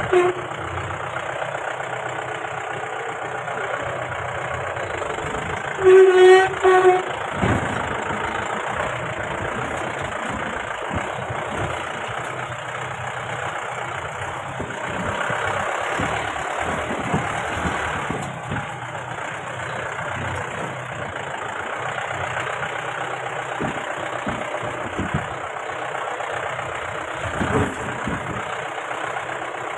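Mahindra Bolero engine running steadily on a rough off-road hill track, with scattered knocks and jolts. About six seconds in come two loud, short steady tones.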